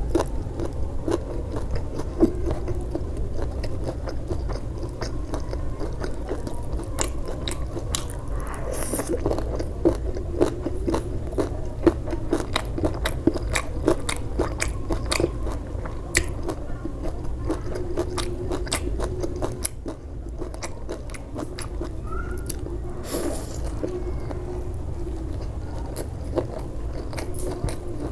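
Close-miked eating: steady chewing and biting with many sharp, crisp clicks and crunches, over a steady low hum.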